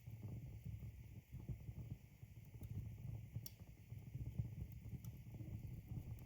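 Wood logs burning in a fireplace: a low fluttering rumble of flames with a few faint crackles, the sharpest about three and a half seconds in.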